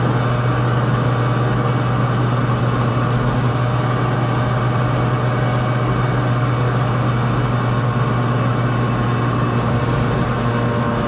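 2020 New Flyer XD60 articulated diesel bus running steadily: a constant low engine drone with steady tones above it, and faint high-pitched rattles or squeaks twice.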